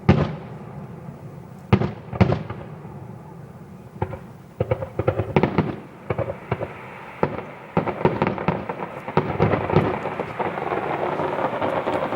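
Fireworks display: a few loud single bangs in the first seconds, then quick clusters of cracks that build into a dense, continuous crackling through the second half.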